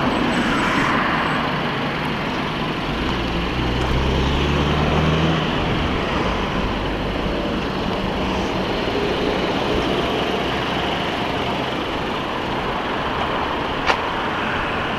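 Steady vehicle and traffic noise. A low engine hum swells for a couple of seconds about three seconds in, and there is a single sharp click near the end.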